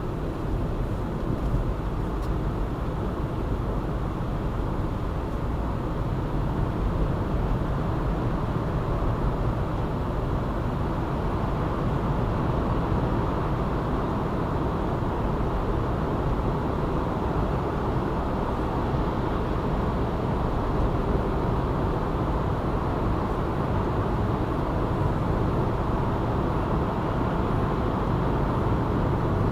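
Steady road noise of a car driving on a city ring road at a steady pace: tyre and engine noise, heaviest in the low range, with no marked changes.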